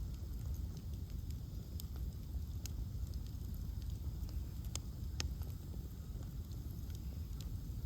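Ash-log bonfire burning: scattered sharp crackles and pops over a steady low rumble, with two louder pops a little past the middle.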